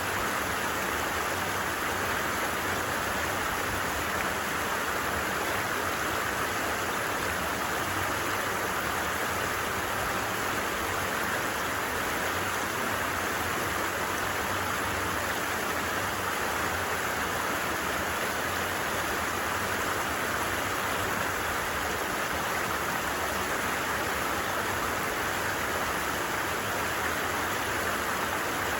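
A stream running steadily over its bed: an even rush of water that neither rises nor falls.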